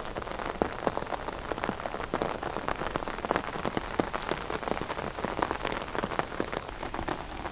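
Rain falling steadily on an umbrella held just overhead: a dense, irregular tapping of drops, with louder single drops standing out now and then.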